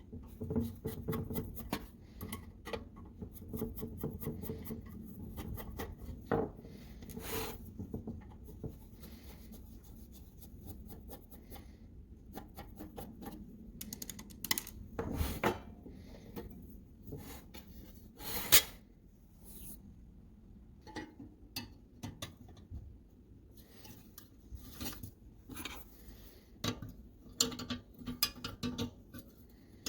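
Hand work on small metal parts: irregular clinks, taps and scraping, with one sharp knock a little past halfway.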